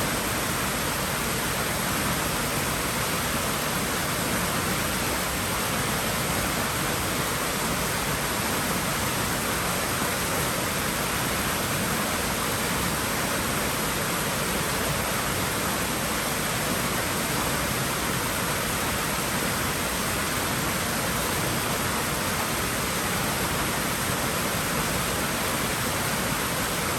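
Steady rushing of moving water in a swimming pool, an even, unbroken wash with no separate splashes.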